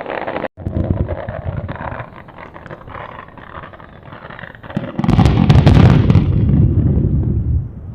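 Fireworks shells bursting overhead: a low rumble with sharp crackles early on, then quieter crackling, and a loud burst with crackle about five seconds in whose low rumble lasts over two seconds.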